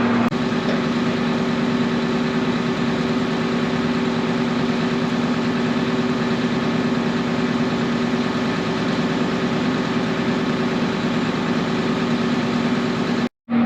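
John Deere 8770 tractor's diesel engine running at a steady speed, a constant drone with a steady hum. The sound drops out completely for a moment near the end.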